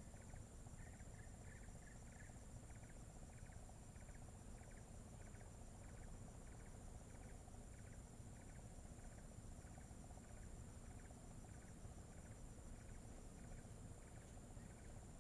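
Faint forest ambience: a calling animal repeats a short chirp about one and a half times a second over a steady, high, thin insect drone and a low rumble.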